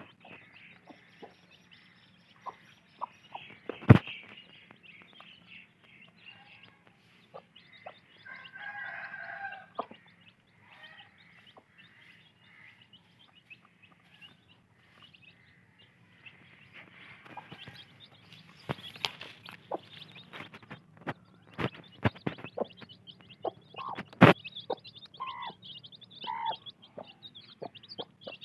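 Domestic hens clucking now and then while chicks peep, the high peeping thickening near the end. Scattered sharp clicks or knocks come through, two of them loud.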